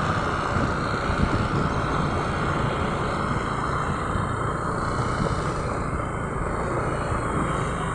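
Motorcycle running at a steady pace while being ridden, its engine and road noise holding an even level.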